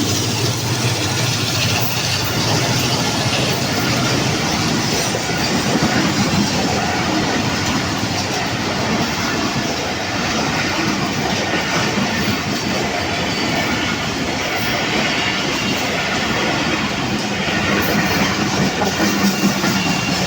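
Passenger train coaches rolling past close by, with a steady clickety-clack of wheels over the rail joints.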